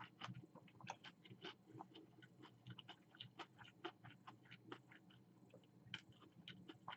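Close-up chewing of a mouthful of crispy chicken-strip sandwich: faint, irregular small crunches and wet mouth clicks, several a second.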